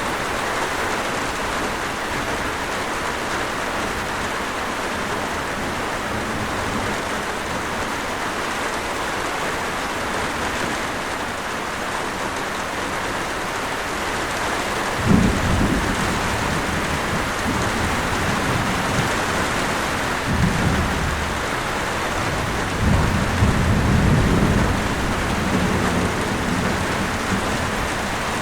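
Steady, even rainfall, with low thunder rumbles breaking in about halfway through. The first rumble starts suddenly and is the loudest; two more follow, about five and eight seconds later.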